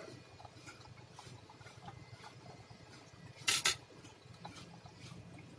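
Faint small clicks and taps of tools being handled at a repair bench, over a low steady hum, with one short loud noisy burst about three and a half seconds in.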